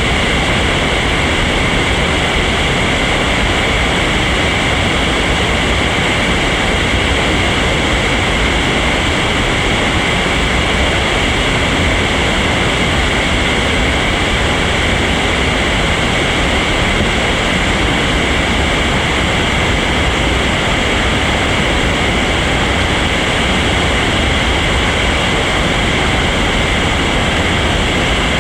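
Loud, steady rush of whitewater rapids on a river running high.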